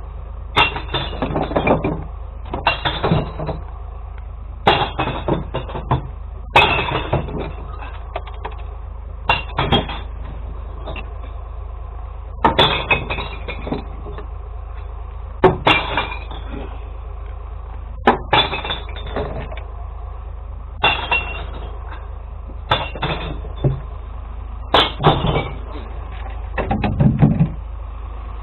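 Glass bottles and jars crashing and smashing as they are tipped into a kerbside glass recycling truck. The crashes come in a series, one every one to three seconds, over the steady low hum of the truck's engine.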